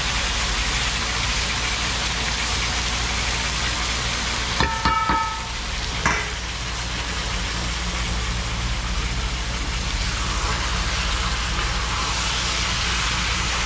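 Chicken frying in a pot, a steady sizzle. A few ringing clinks come about five seconds in, and another about six seconds in.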